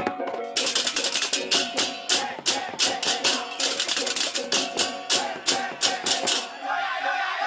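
Balinese gamelan music: a metallophone melody under fast, crashing cymbal strokes about four times a second, the cymbals dropping out briefly near the end.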